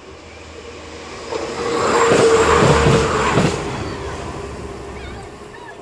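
A train passing through a level crossing at high speed: a rush of noise that builds over a couple of seconds with a steady hum and a few sharp knocks, then fades away.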